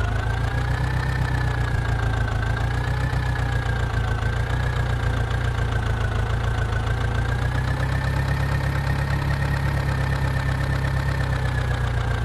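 Tractor engine idling steadily, with a thin whine above it that wavers slightly in pitch; it starts and cuts off abruptly.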